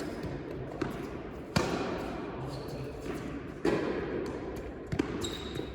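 Tennis balls struck by rackets and bouncing on an indoor court during a rally: a few sharp pops, the two loudest about a second and a half and about three and a half seconds in, each ringing briefly in the large hall.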